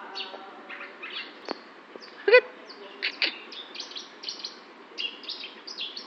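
Small birds chirping: a steady run of short, high chirps, several a second, with one louder, lower call about two and a half seconds in.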